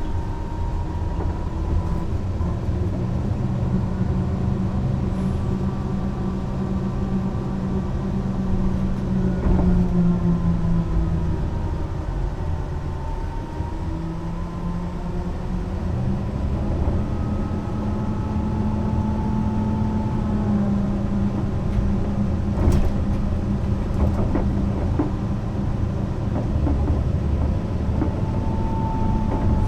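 Mercedes-Benz O 405 NÜ low-floor intercity bus under way, its diesel engine running steadily with a higher whine above it; engine and whine sink and rise in pitch several times as the bus slows and pulls away again. A sharp click about two thirds of the way through.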